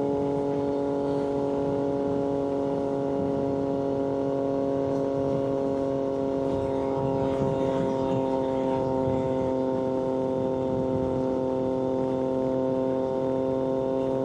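Triumph Street Triple 765RS inline-three engine running through an SC-Project aftermarket exhaust at a steady cruise, its engine note holding one pitch with no revving.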